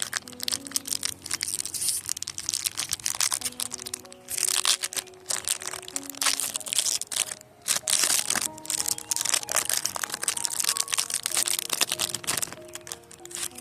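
Foil wrapper of a Pokémon TCG VSTAR Universe booster pack crinkling and crackling as it is handled, dense and irregular. It plays over soft background music with slow held notes.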